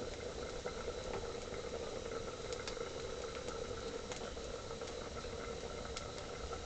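Beef pieces frying in coconut oil in a pan on low heat, with faint scattered crackles over a steady background hum.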